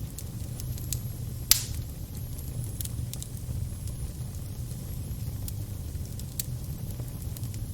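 Fire crackling over a low steady rumble, with scattered sharp pops and one loud pop about a second and a half in.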